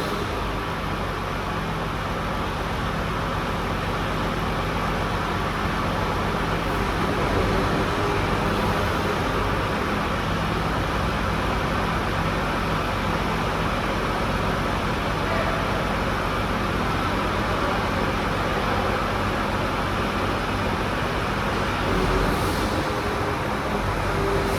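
Crane truck engine running steadily under the grapple crane's operation, a constant low drone with no change in pace.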